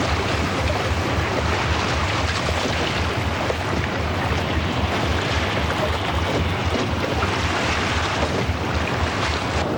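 Steady wind and sea noise with a low rumble underneath.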